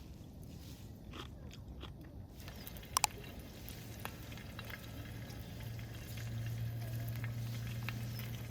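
Cooking at a camp stove: two quick sharp clicks about three seconds in, then a steady low hum that builds and grows louder, with faint small clinks of cookware.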